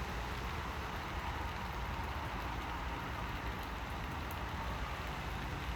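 Steady rain falling, an even hiss with a low hum underneath and a few faint ticks of drops.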